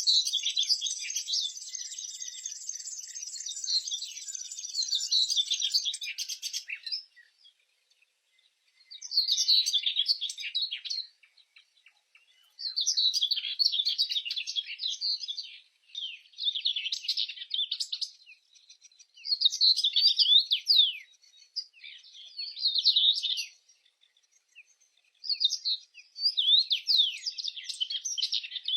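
A songbird singing in repeated phrases about two seconds long, separated by short pauses, with quick downward-slurring notes. For the first six seconds or so a steady, high-pitched trill runs underneath and then stops.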